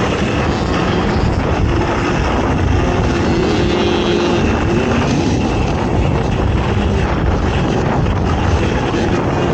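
Racing ATV engine running hard, its pitch rising and falling with the throttle, under a heavy wash of wind and ride noise.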